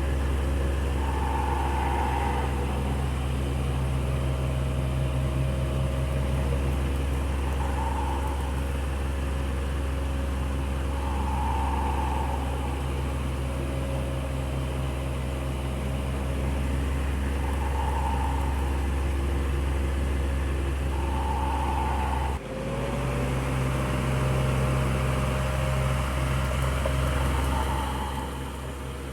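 Electric fan running steadily: a low motor hum under an even whoosh of moving air, which swells now and then. About two-thirds of the way through the sound dips for an instant and carries on.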